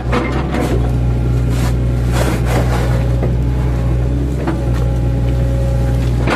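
Mini excavator's diesel engine running steadily under load, with a hydraulic whine that holds for a while in the middle, while the bucket chops an oil palm trunk with scattered knocks and cracks of wood.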